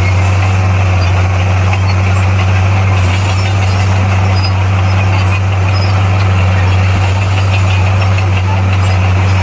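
Bulldozer's diesel engine running at a steady, unchanging speed with a low hum.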